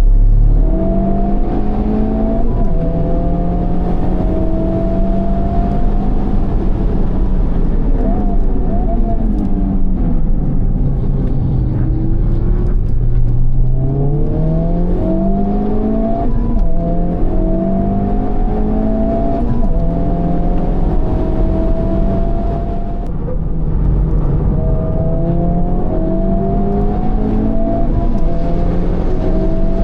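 Honda Civic Type R FL5's turbocharged 2.0-litre four-cylinder engine through a Mugen exhaust at full-throttle track driving: the revs climb and fall sharply at several upshifts. Near the middle the revs fall away to a low pitch for a few seconds, as when slowing for a corner, then climb back through the gears.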